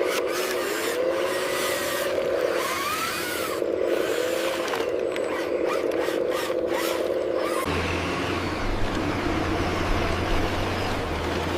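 Heavy machinery: a whine that wavers up and down in pitch, with scraping and rubbing, cuts off about eight seconds in and gives way to a low, steady engine idle.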